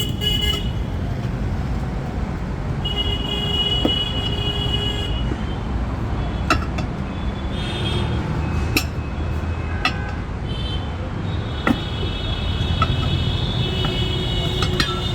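Steady road traffic rumble with vehicle horns honking twice, a short honk about three seconds in and a longer one near the end, and a few sharp clicks or taps in between.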